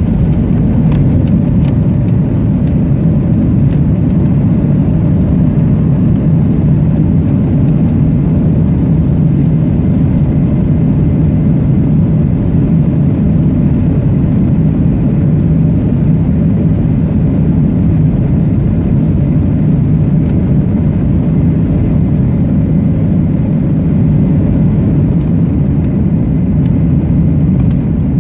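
Steady cabin roar of a Boeing 737-700 under power, its CFM56 engine noise and airflow heard from inside the passenger cabin. The deep, even rumble does not change.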